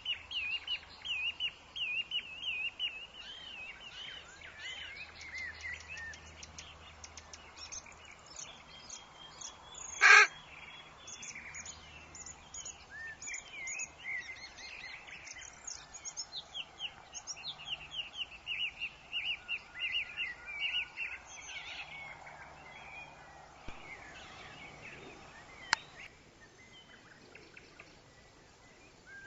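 Woodland birds chirping: rapid, repeated high chirps from several birds over a faint steady hiss. One loud, harsh call comes about ten seconds in, and the chirping thins out over the last few seconds.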